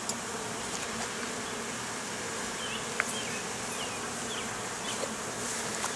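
Honeybees buzzing around an open hive: a steady hum of many bees' wings.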